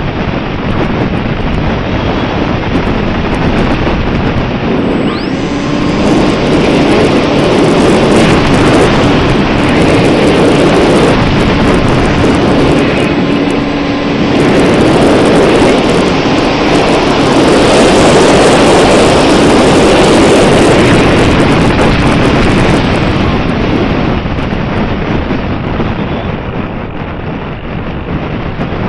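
Heavy wind buffeting the microphone, swelling and easing in loudness. A faint steady hum runs for several seconds in the middle.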